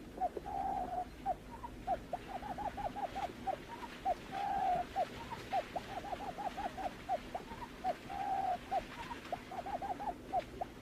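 Barred buttonquail calling: long runs of short, quick notes, several a second, with a longer purring note three times.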